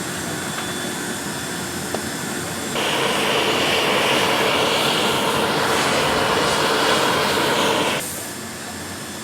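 Jet engines of a C-17 Globemaster III running steadily, with a louder hiss that cuts in abruptly about three seconds in and drops away just as suddenly about five seconds later.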